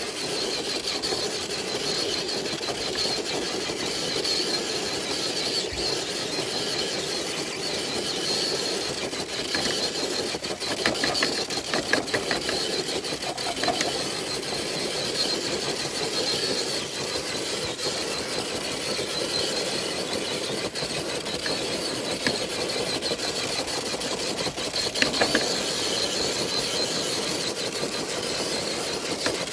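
Electric motor and gearbox of a Traxxas TRX4 RC truck whining steadily under load as it drags a weighted dead sled, with a few brief clicks and rattles partway through. The pull goes the full distance.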